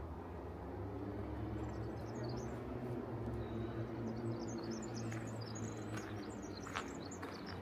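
Small birds chirping and twittering in quick high notes, over a steady low drone. A few sharp clicks come near the end.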